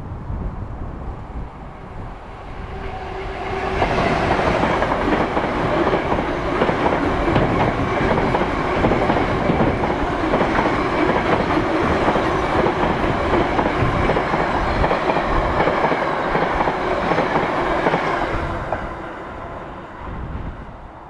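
Class 66 diesel freight locomotive with its two-stroke V12 engine approaching and passing, hauling a long train of tank-container wagons. The noise builds over the first few seconds, then the wagons rumble and clatter steadily past on the rails for about fourteen seconds, and the sound fades away near the end.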